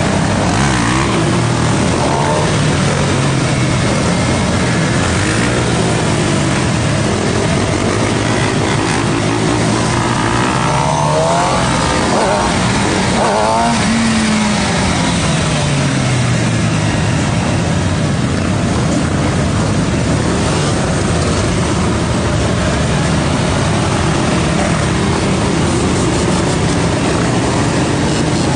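Sport motorcycle engine running under way, rising and falling in pitch as the throttle changes, under heavy wind noise on the microphone. Quads and other bikes of the group rev around it, with several engines climbing and dropping in pitch at once about halfway through.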